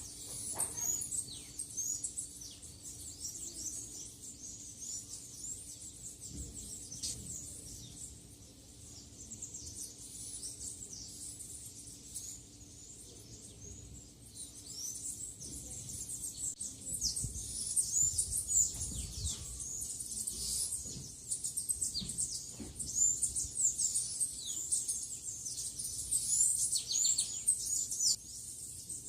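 Many small birds chirping and twittering together in short, high-pitched calls, growing busier about halfway through.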